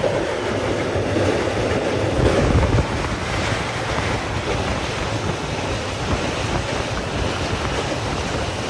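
Express passenger train running at speed across a steel truss bridge, heard from an open coach doorway: a steady rush of wheel and rail noise with wind buffeting the microphone.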